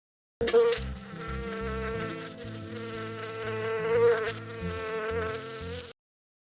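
A flying insect buzzing: a steady, wavering hum that starts abruptly about half a second in and cuts off abruptly near the end.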